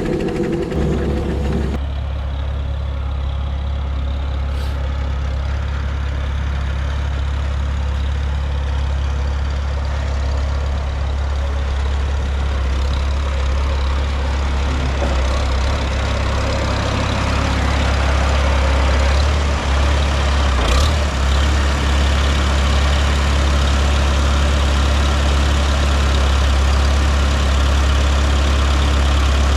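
An engine running steadily with a deep, even drone, the sound changing abruptly about two seconds in.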